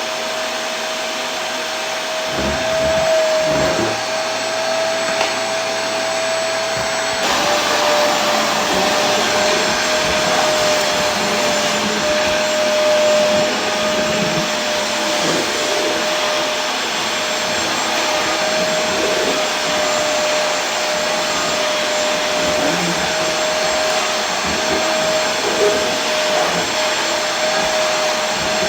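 Vacuum cleaner motor running continuously: a steady rushing hiss with a constant hum-like whine, which shifts slightly lower and brighter about seven seconds in.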